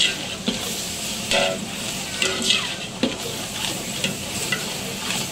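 Pressure-cooked mutton sizzling as it fries in biryani masala in a large metal pot, stirred with a metal ladle that scrapes against the pot every second or so.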